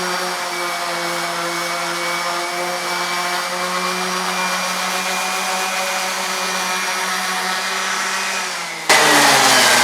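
Electric random orbital sander with 80-grit paper running steadily against a painted and faired wooden hull plank, a motor hum over a gritty sanding hiss. Near the end the sound changes abruptly and gets louder.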